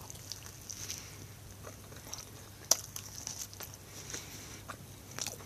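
Faint chewing of a bite of pandesal (soft bread roll), heard as small irregular mouth clicks, with one sharper click a little under three seconds in.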